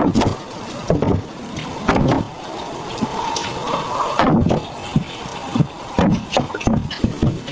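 Irregular knocks and thuds of wood being handled and struck during building work, over a steady rush of falling water.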